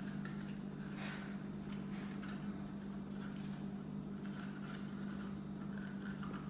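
Steady low hum in a small room, with a few faint rustles and taps of a cardboard tissue roll and string being handled as the string is threaded and tied, one a little louder about a second in.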